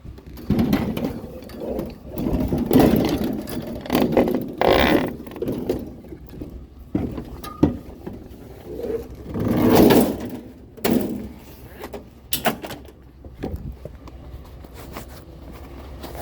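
Curbside scrap metal being handled and loaded: an irregular run of clanks, knocks and scrapes, loudest about three seconds and ten seconds in.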